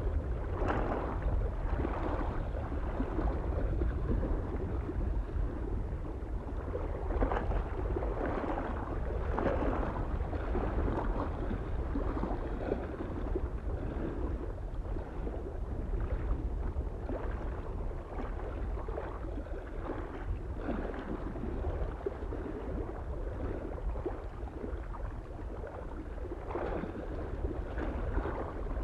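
Small waves lapping and splashing irregularly against the shore of a mountain lake, with a steady low rumble of wind underneath.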